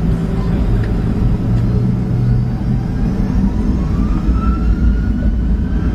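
Boeing 737-700's CFM56 turbofan engines heard from inside the cabin: a steady low rumble, with the engine whine rising in pitch about halfway through as the engines spool up.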